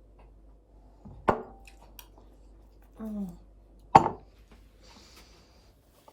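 Two sharp knocks, one a little over a second in and a louder one about four seconds in, like hard kitchen objects being set down or struck.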